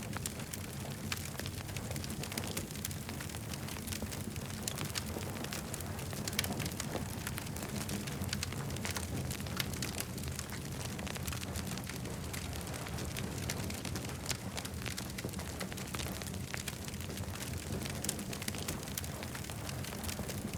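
Wood campfire burning, with dense, irregular crackles and pops over a steady low rumble.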